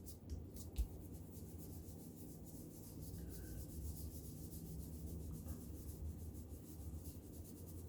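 Faint, quick scratchy rubbing on paper as paper craft pieces are glued and pressed down by hand, over a low steady hum.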